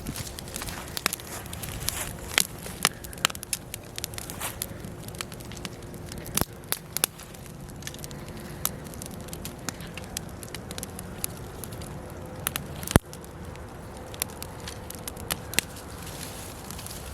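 Logs burning in a fireplace, crackling with irregular sharp pops and snaps over a steady background of the fire, with one loud snap about thirteen seconds in.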